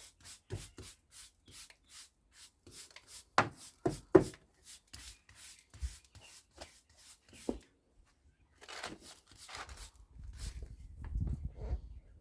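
Rapid run of small sharp taps or clicks, about three or four a second, with a few louder knocks about three to four seconds in, then a stretch of rubbing and scraping near the end.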